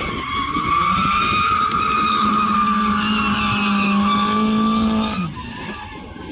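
Drift car engine held at high, steady revs while the tyres skid, then the revs drop and the engine note falls away about five seconds in as the throttle comes off.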